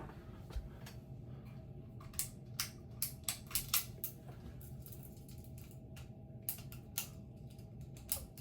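Hampton Bay Littleton ceiling fan motor running with a steady low hum during a test run, with a series of sharp clicks, several in quick succession about two to four seconds in and a couple more near the end.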